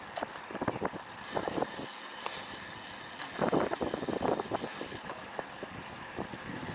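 Wind buffeting the action camera's microphone during a road bike ride in strong headwind, a steady rush broken by irregular crackling gusts, the strongest about halfway through.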